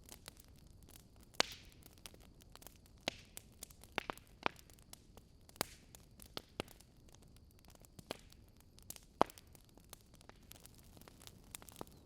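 Burning wood logs crackling, with irregular sharp pops and snaps, the loudest about a second and a half in and again near nine seconds, over a faint low hiss.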